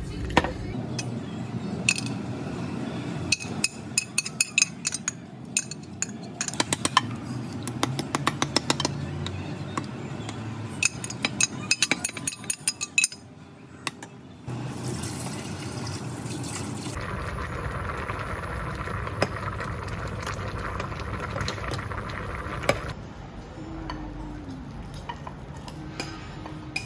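Dishes, glassware and utensils clinking in quick irregular runs of taps, with a few seconds of steady hiss past the middle.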